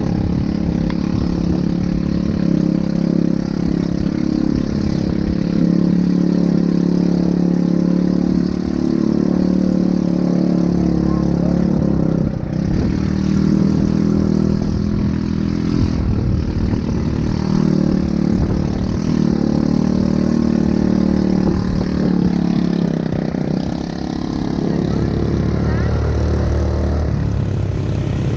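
ATV engine running steadily while riding, easing off briefly about halfway and again near the end.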